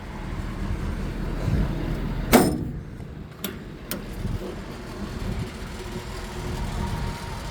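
A steel utility-box compartment door on a service truck slams shut about two seconds in, with a short metallic ring, followed by two light latch clicks; a steady low rumble runs underneath.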